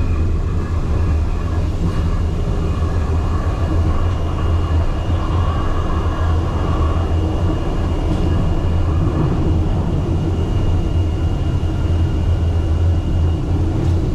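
Cabin noise of a Wuppertal Schwebebahn suspension railway car running, a loud steady low rumble with a thin steady high whine above it from about a second in.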